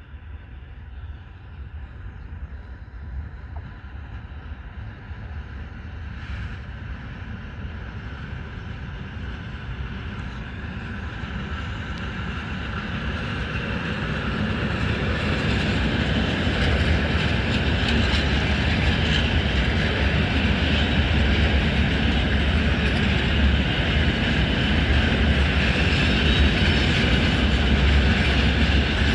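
Freight train approaching and passing: a low rumble and the noise of the wagons grow steadily louder over the first half, then hold loud and steady as the train goes by.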